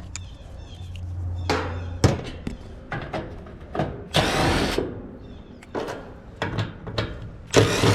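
Power drill running in a few short bursts, the longest about halfway through, amid clicks of tool handling. A steady low hum stops with a sharp click about two seconds in.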